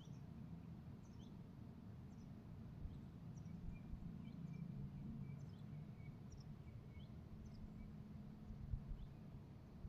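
Faint outdoor ambience: small birds give short, high chirps about once a second over a low, steady rumble, with a soft run of repeated notes through the middle.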